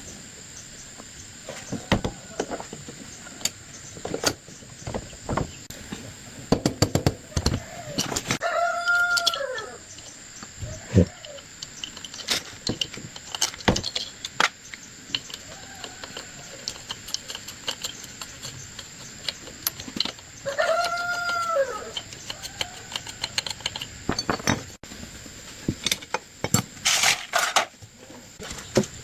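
A rooster crowing twice, each crow a long arched call about ten seconds after the other, over scattered sharp clicks and knocks.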